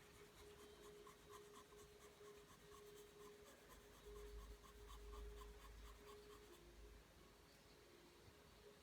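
Faint pencil strokes on paper drawing lines over and over, about three strokes a second, with a steady faint hum underneath.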